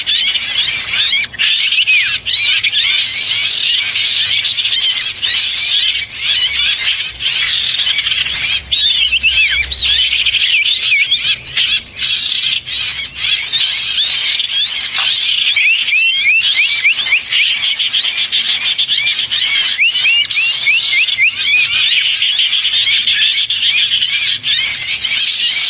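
A dense, noisy chorus of many small songbirds chirping and calling over one another without a break, a bird-trapping lure recording of small birds such as bulbuls.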